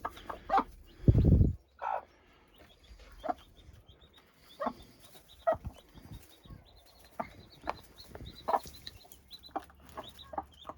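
Broody hen clucking softly in short, scattered calls over her newly hatched chicks, which cheep in brief high chirps. One loud low thud about a second in.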